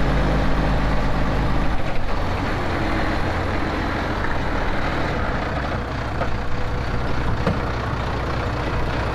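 Heavy Autocar log truck's diesel engine running as the truck pulls in: a steady low drone whose pitch shifts about two seconds in.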